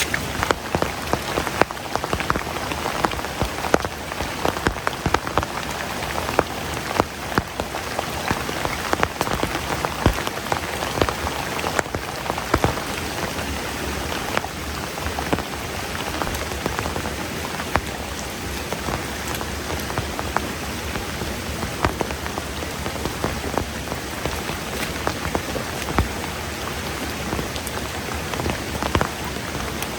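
Heavy rain falling steadily, a dense hiss with many sharp drop impacts spattering through it.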